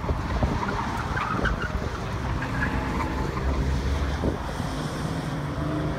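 Car engines running on an autocross course, with wind buffeting the microphone. A faint steady engine note comes through more plainly in the second half.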